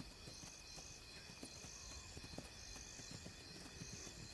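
Faint night insect chorus: crickets trilling steadily, with a higher trill repeating about once a second.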